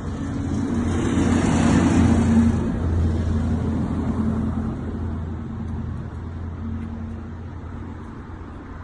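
Truck engine running, loudest about two seconds in, then fading away steadily.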